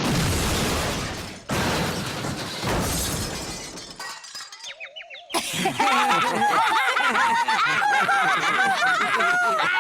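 A loud cartoon crash with shattering, coming twice and dying away over about three seconds. After a short lull, a group of children laughs together.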